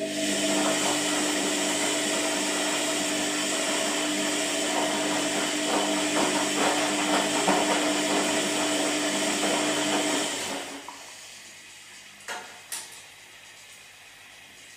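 Washing machine running, its motor humming over a steady churning noise that winds down about ten seconds in. Then it goes quieter, with two short knocks.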